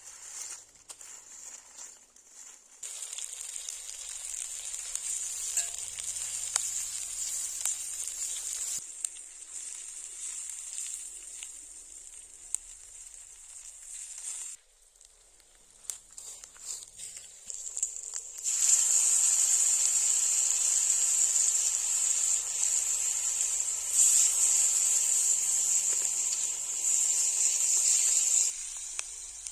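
Meat sizzling on a hot stone, a hiss with small crackles that grows much louder about two-thirds of the way in and eases just before the end.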